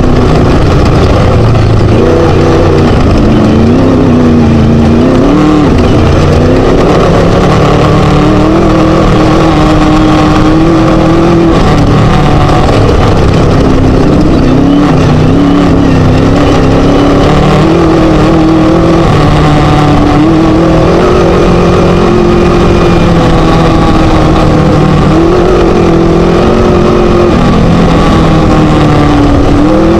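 Chenowth DR2 Class 1 desert-race buggy's Scat V4 engine running hard and loud under racing load. Its pitch rises and falls continually as the throttle and gears change over rough terrain.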